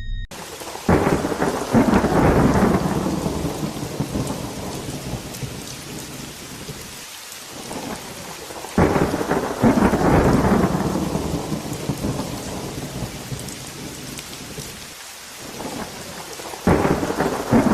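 Steady rain falling, with three claps of thunder about eight seconds apart, each starting suddenly and rumbling away over several seconds.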